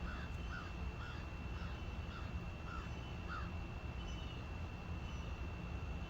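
Crow cawing: a run of about seven short caws, roughly two a second, that stops about three and a half seconds in. A steady thin high whine and a low background rumble run underneath.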